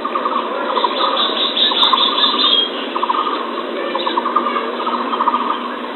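Bird calls played as a hunting lure recording: fast pulsed trills repeating every second or so over a steady hiss, with the thin sound of a low-fidelity recording.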